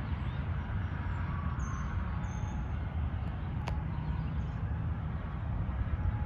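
Steady rumble of road traffic, with faint short electronic notes from a distant ice cream truck's music box jingle. One sharp click a little past halfway.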